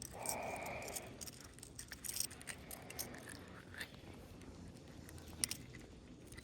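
Faint handling noise of fishing tackle as a small fish is brought in: a short whirring in the first second, then scattered small clicks and ticks.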